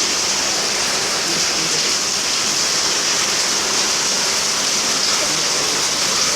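Heavy rain pouring down steadily, an even dense hiss.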